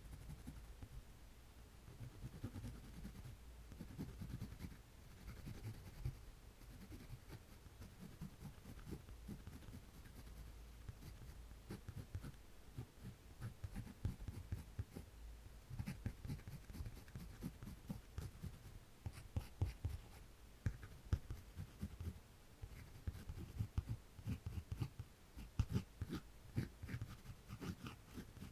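Pen or pencil scratching on paper in short strokes, faint, with the strokes getting busier and louder about halfway through.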